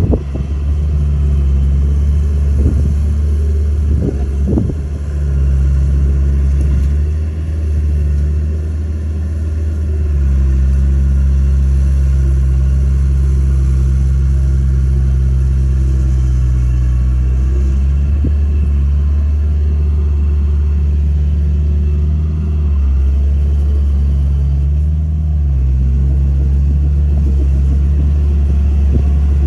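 Komatsu D31A bulldozer's diesel engine running under working load, a loud low rumble whose pitch steps up and down several times as the load changes. There are a few sharp knocks in the first five seconds.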